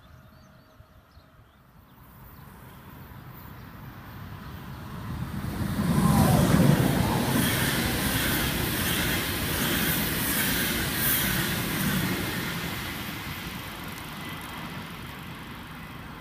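Intercity passenger train passing on electrified track: a rush that builds to its loudest about six seconds in, then the steady rolling clatter of the coaches' wheels, fading toward the end.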